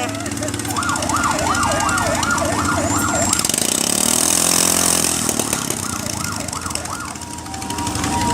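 Vehicle siren in a fast yelp, sweeping up and down a few times a second, heard twice. Near the end it switches to a two-tone hi-lo pattern. An engine runs underneath, its pitch falling in the middle.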